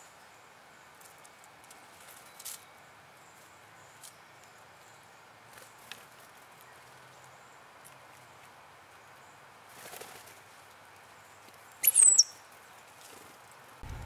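Birds at a feeding spot: a few faint taps, then a soft flutter of wing flaps, then one loud, short, high call sliding downward about twelve seconds in.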